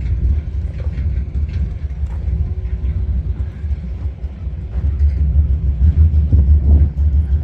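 Deep, steady low rumble of vehicle engines running, louder from about five seconds in.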